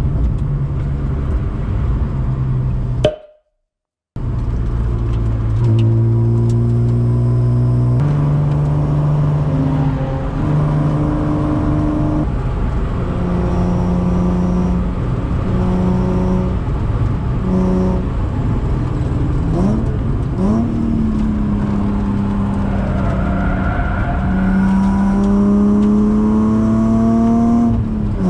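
BMW E36 323i's 2.5-litre straight-six with a Supersprint exhaust, heard from inside the cabin, pulling hard through the gears. The pitch climbs and drops back at each shift, then rises in one long pull near the end. The sound cuts out completely for about a second roughly three seconds in.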